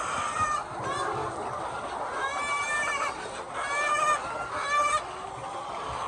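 A flock of chickens clucking steadily, with several louder, drawn-out calls from individual birds between about two and five seconds in.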